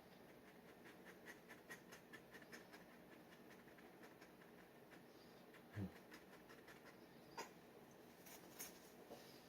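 Faint scratching of a G-nib dip pen on paper in a run of short quick strokes, about four a second, then a soft low knock and a few single light clicks.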